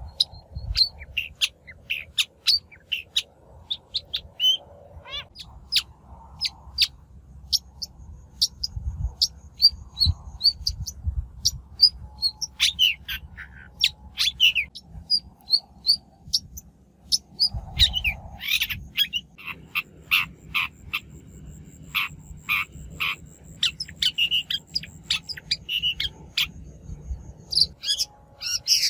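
Shrike calling: rapid series of short, harsh, sharp notes, with a pause a little past the middle before the calling picks up again. It is a lure call, the kind played to draw wild shrikes in.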